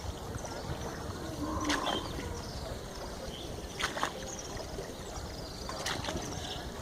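Rowboat on the river: three oar strokes knock and splash about two seconds apart over steady wind and water noise.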